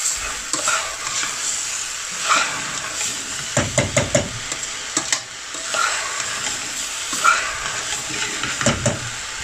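Rice, lentils and chopped vegetables sizzling as they fry in a stainless steel saucepan, while a metal spoon stirs them, scraping and knocking against the pan in short clusters, about 4 seconds in and again near the end.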